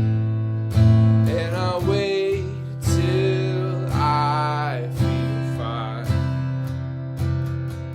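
Martin GPCPA4 acoustic guitar music: a strummed chord struck about once a second over steady bass notes, with sliding, wavering melody notes above it.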